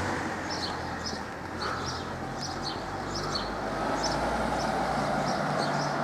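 Small birds chirping over and over in short high notes, over a low steady rumble of traffic.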